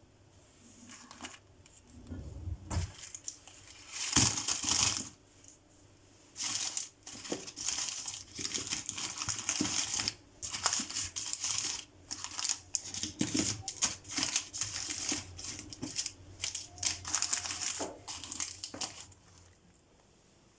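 Packaging crinkling and rustling in irregular bursts as it is handled, with a few light knocks in between; it stops near the end.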